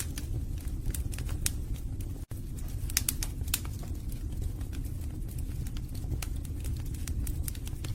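Wood fire burning in a fireplace: a steady low rumble of flames with frequent sharp crackles and pops from the logs, the loudest pops coming in a quick cluster about three seconds in. The sound cuts out for an instant just after two seconds.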